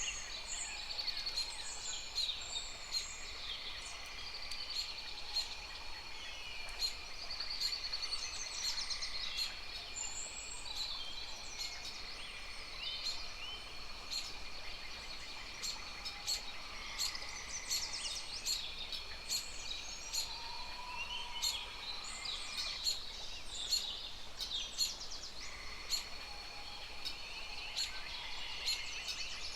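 A chorus of many birds chirping, trilling and calling over one another without pause, with sharp clicky calls scattered through and a steady high tone underneath.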